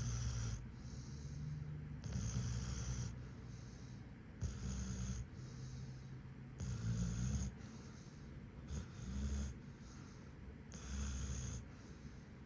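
German Shepherd snoring in its sleep: a steady rhythm of snoring breaths about every two seconds, each a low rattling buzz with a breathy hiss.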